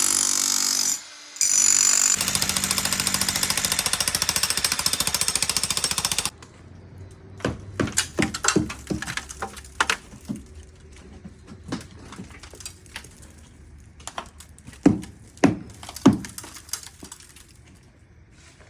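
Jackhammer running in a brief burst, pausing, then running again for about four seconds before stopping abruptly. After it, a string of scattered sharp knocks and clatters.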